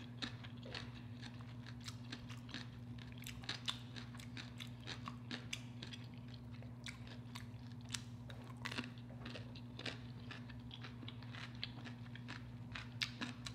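A person eating close to the microphone: chewing and crunching, with many short, sharp wet clicks from the mouth. A faint, steady low hum runs underneath.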